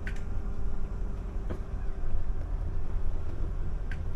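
Vehicle cabin noise while driving slowly: a steady low rumble with a faint hum, and three light ticks or rattles spread through it.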